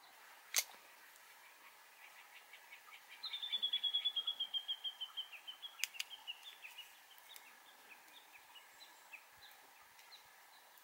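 A bird's rapid trill of many short high notes, falling slightly in pitch and fading away over about three seconds. Two sharp clicks sound near the start and about six seconds in, the second from bonsai pruning shears snipping a twig.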